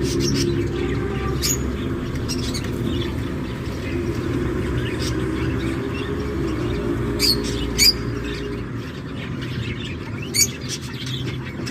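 Birds chirping, a few short sharp chirps standing out about seven to eight seconds in and again about ten seconds in, over a steady low rumble.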